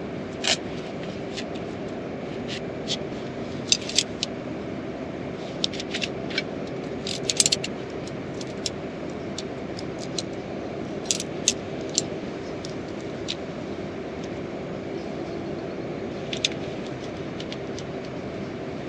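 Steady hiss of heavy rain, with irregular sharp clicks and taps scattered through it, most of them in a cluster between about four and eight seconds in.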